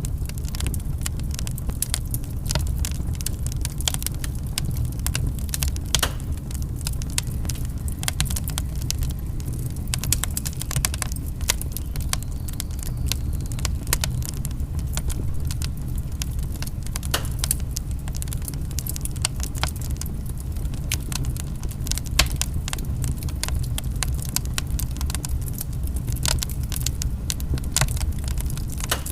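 Wood fire burning, crackling with frequent irregular sharp pops over a steady low rumble.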